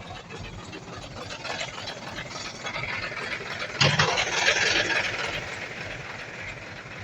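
Bulldozer's diesel engine running, with a sudden loud surge of noise and a low thump just before four seconds in that fades away over a second or so.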